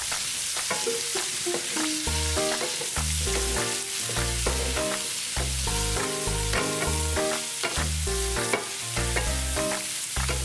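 Squash, eggplant and bitter melon sizzling in oil in a wok while a spatula stirs and scrapes them against the pan. A background music track with a bass line plays underneath.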